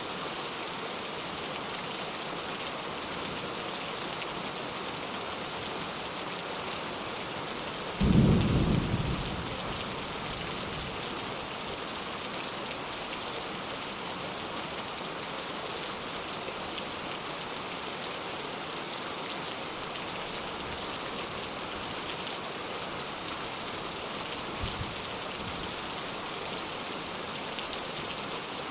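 Steady rain hissing down, with one short, sharp thunderclap about eight seconds in that dies away over a second or two, and a faint low rumble near the end.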